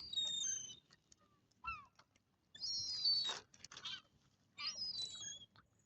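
Water birds calling: three short bursts of high, thin, slightly falling calls, with one quicker lower call between the first two.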